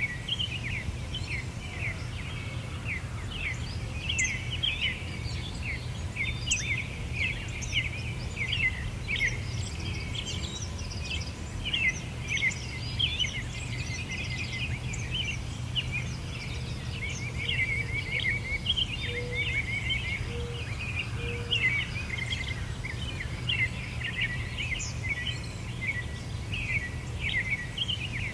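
A chorus of many small birds chirping and twittering without a break, their quick high notes overlapping, over a steady low rumble. About two-thirds of the way through, three short low notes sound in a row.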